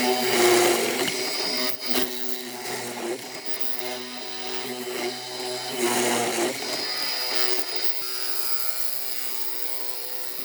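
An electric power tool running with a steady motor whine, its pitch and load shifting a couple of times.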